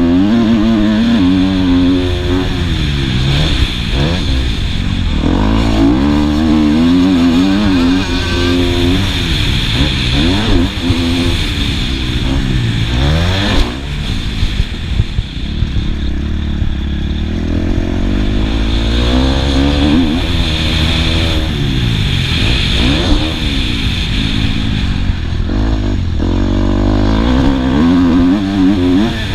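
Motocross bike engine heard from a helmet-mounted camera, revving hard and then falling back again and again as the rider accelerates and shifts around the track.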